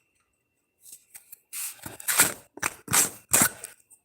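A few light clicks, then about five quick rattling shakes of a seasoning shaker in the second half.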